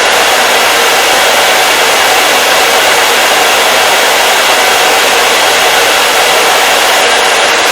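Hair dryer running steadily: a loud, even rush of air noise that does not change.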